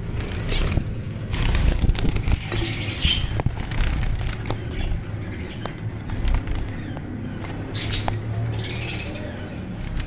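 Budgerigars chirping in short bursts, several times, over a steady low rumble with scattered sharp clicks.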